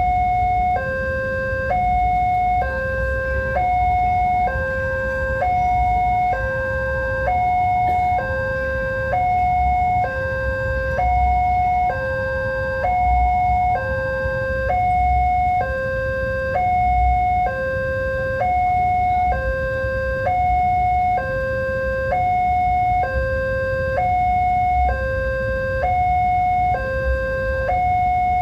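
Railway level-crossing warning alarm, an electronic two-tone signal alternating evenly between a higher and a lower pitch, each tone lasting about a second, over a low rumble.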